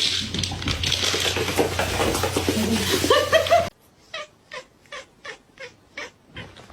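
A cat meowing and yowling over a loud, noisy background, with rising meows near the end of that stretch. After a sudden drop to quiet, a run of short, evenly spaced cat sounds comes about three a second.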